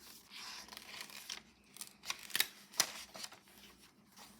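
Paper pages and cards of a handmade junk journal being turned and handled: soft rustling with several sharp paper snaps and taps, clustered between about a second and a half and three seconds in.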